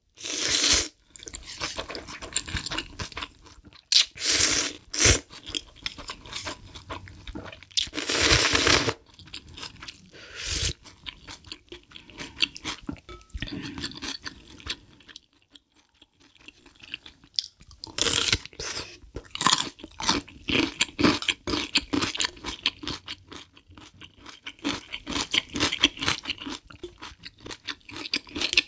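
Close-miked eating: food crunched and chewed. A few loud, second-long bursts come early, then dense, rapid crunching fills the last third.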